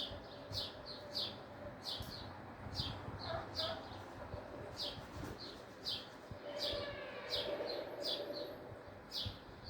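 Bird chirping over and over: short, high, falling chirps about two to three a second, often in pairs, over a faint hiss.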